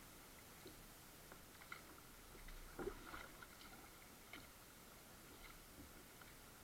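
Faint water sounds around a kayak: small drips and ticks from the paddle and hull, with one louder splash about three seconds in.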